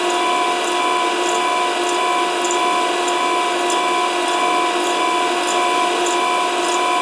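Grinding wheel running against a steel workpiece turning on a spin jig: a steady motor whine with several held tones over a continuous grinding hiss, with faint high ticks that repeat roughly every half second to one second.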